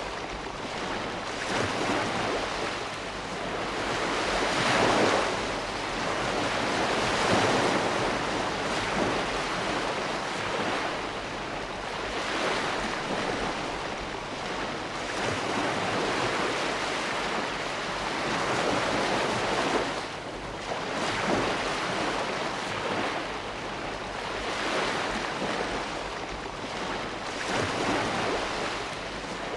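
Ocean waves breaking and washing on a shore, a continuous rush of surf that swells and ebbs every few seconds.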